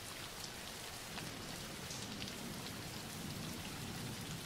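Steady rain: an even, soft hiss with faint scattered drop ticks.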